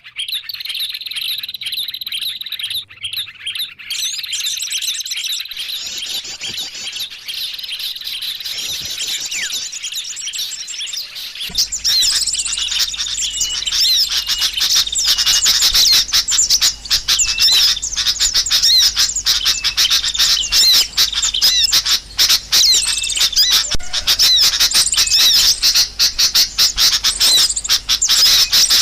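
Small birds chirping and twittering, used as a lure call to draw in small birds. About a third of the way in, the chirping becomes denser and louder, with a low steady hum underneath.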